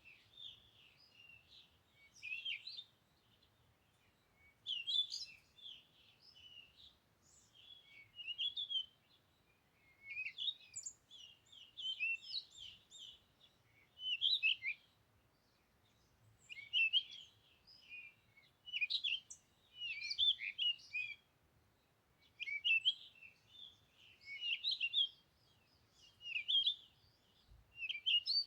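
Small birds chirping and twittering in quick, busy phrases that come again every couple of seconds, with short pauses between.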